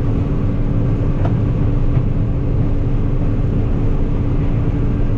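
Combine harvester running steadily during corn harvest: a loud, even machine noise with a constant hum.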